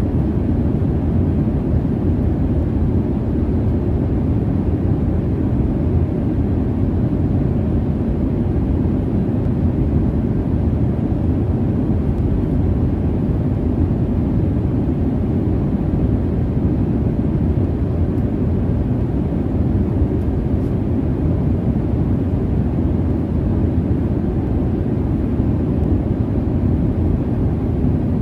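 Steady low rumble of a jet airliner's cabin in cruise, a constant deep hum of engine and airflow noise.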